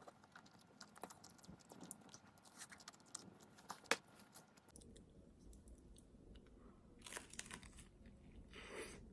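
Faint small clicks and taps of food being handled, then after about five seconds a few soft crunchy bites and chewing, as of a toasted sandwich being eaten.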